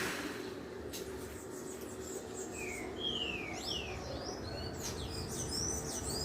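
Several birds chirping, short whistled calls that slide down or up in pitch, coming thickest in the second half. A faint steady low hum lies underneath.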